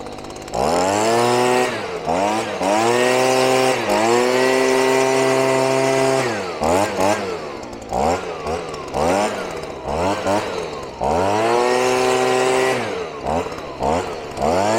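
Two-stroke petrol chainsaw held at full throttle for several cuts of a second or two each, dropping back between them, with a run of short throttle blips in the middle.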